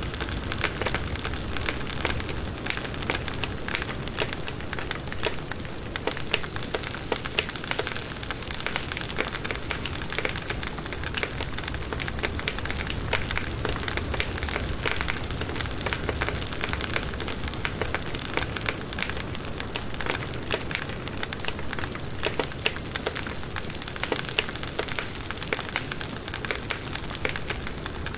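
Firewood burning in a campfire, crackling steadily with many small sharp pops over a continuous hiss.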